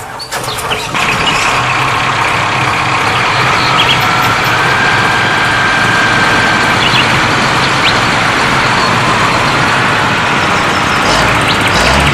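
Vehicle engine running steadily, a loud even rumble and hiss that starts suddenly and holds level throughout.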